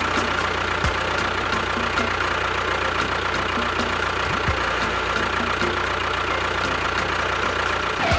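Engine idling steadily at an even pace, with a faint regular ticking and a constant whine.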